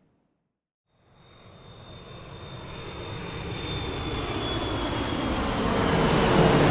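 Jet airliner cabin noise: the steady rush of the engines and airflow fades in after about a second of silence and grows steadily louder. A faint high whine runs above it.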